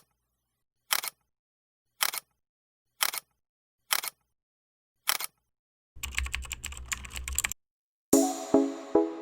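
Keyboard typing: six single keystrokes about a second apart, then a quick run of rapid keystrokes. Near the end, music with struck piano-like notes starts.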